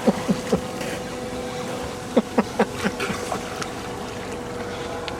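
Boat motor humming steadily over wind and water noise, with a quick run of short falling-pitch sounds about two seconds in.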